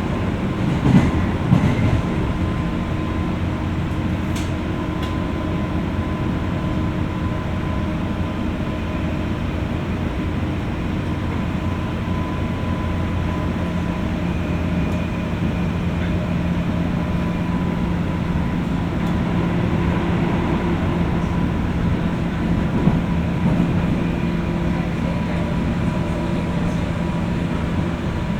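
JR West 201 series electric train car running between stations, heard from inside the car above its armature-chopper control gear. There is a steady rumble with a steady hum and a high tone, and a few clacks of the wheels over rail joints about a second in and again about three-quarters of the way through.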